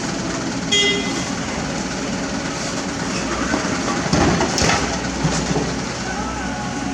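Excavator engine running steadily, with a brief metallic squeal about a second in and a cluster of clanks and knocks around four to five seconds in.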